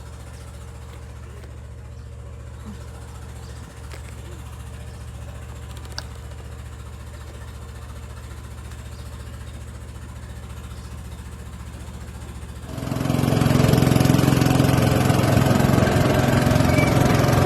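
Boat engine running with a steady low hum, then suddenly much louder and noisier, with a rushing sound over the engine, about thirteen seconds in.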